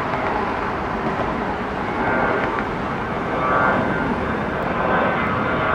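Jet airliner engines running at the airport: a steady rush, with a faint high whine coming in about two seconds in.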